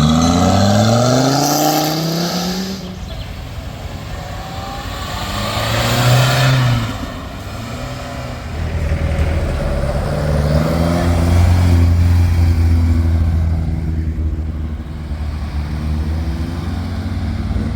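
Engines of classic vehicles driving past one after another. One accelerates with a rising pitch in the first couple of seconds, another swells and fades around six seconds in, then a deep, steady-running engine passes from about eight to fourteen seconds.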